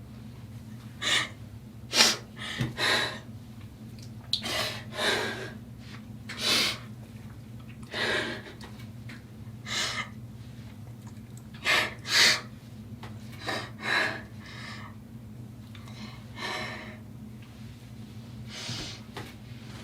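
Short breathy gasps and snorts, about a dozen of them at irregular intervals, over a low steady hum.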